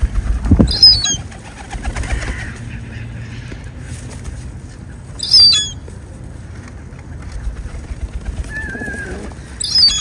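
Birds: three short, high chirps a few seconds apart and one brief warbled call, over low wing-flapping flutters near the start and again at the end.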